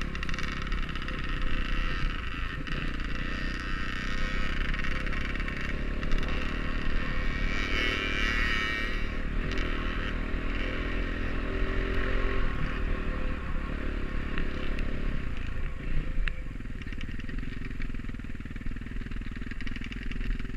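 Off-road dirt bike engine running as it is ridden along a trail, its pitch rising and falling with the throttle.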